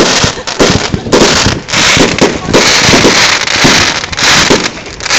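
Fireworks display going off in a dense barrage: loud bangs, about three a second, over a constant hiss of bursting shells.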